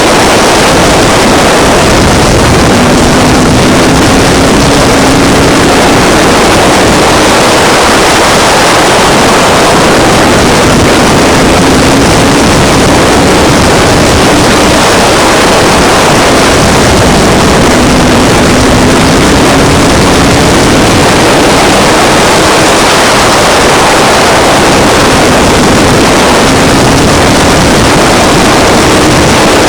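Sport trucks running practice laps on a short oval, heard as a loud, constant, distorted engine noise. An engine note rises again every several seconds as the trucks come around.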